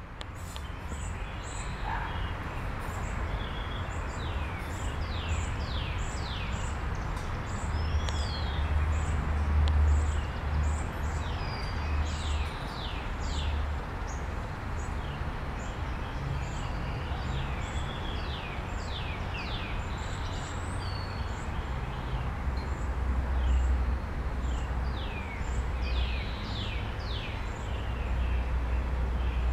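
Songbirds singing in the tree canopy, a run of quick downward-sweeping notes repeated again and again, over a steady hiss and a low rumble that swells a couple of times.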